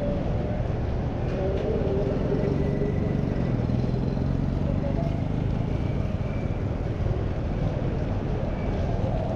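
Steady city street noise in heavy rain: a continuous low rumble of traffic under an even hiss.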